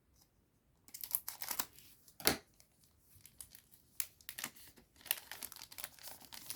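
Foil trading-card booster pack being torn open and its wrapper crinkled. It starts about a second in, with one sharp crack a little after two seconds.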